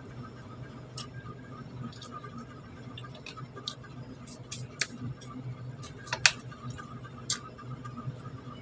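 A person chewing calamansi with salt, mouth closed: scattered small wet mouth clicks and smacks, the loudest a pair a little after six seconds in, over a steady low hum.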